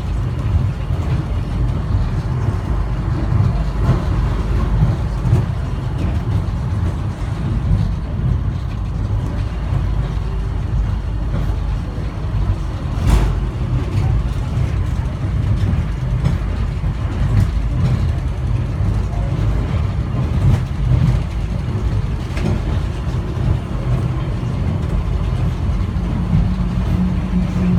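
Airport underground people-mover train running, heard from inside the car: a steady low rumble, with a single knock about halfway and a steady low hum coming in near the end.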